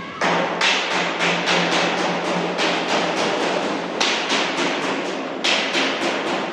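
Hammer or mallet strikes on galvanized sheet-metal ductwork, in four quick runs of several blows at about three a second with short pauses between.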